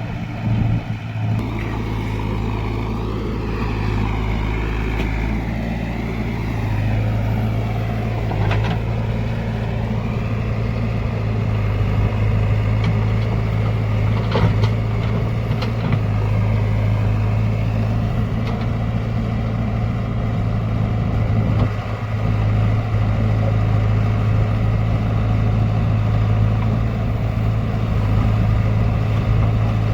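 Heavy diesel engine of a backhoe loader or tractor running steadily with a constant low hum.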